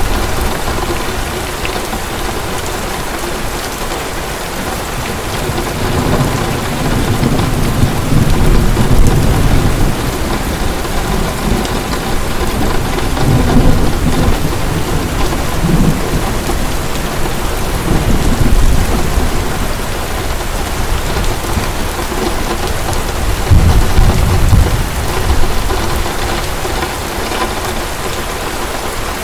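Heavy rain falling steadily, with thunder rumbling low in several swells, the loudest about a third of the way in and again near the end.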